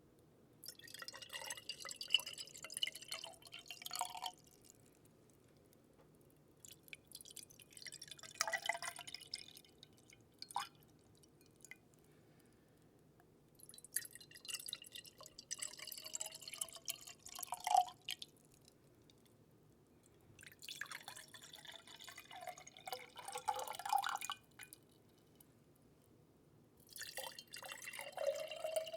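Water trickling and dripping into a small container in five separate spells of a few seconds each, with short pauses between; in several the pitch rises near the end as the container fills.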